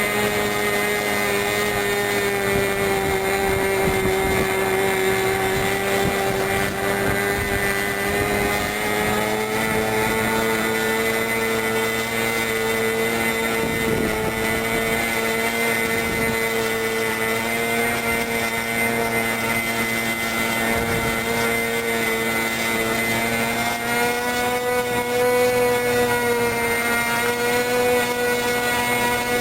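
O.S. AX glow-fuel (nitro) model airplane engine swinging its propeller, running steadily on break-in. Its pitch rises a little about nine seconds in and again near the end.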